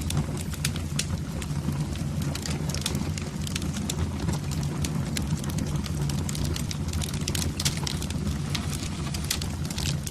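Fire burning in a fireplace, crackling with many quick irregular pops over a steady low rumble.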